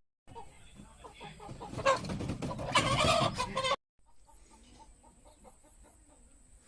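Domestic chickens clucking, building into loud squawking calls for about two seconds; the sound cuts off abruptly just before four seconds in, and softer clucking follows.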